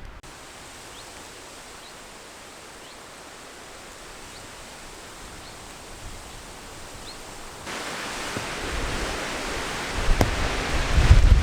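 Steady outdoor wind hiss that grows louder about eight seconds in, with low gusts buffeting the microphone near the end.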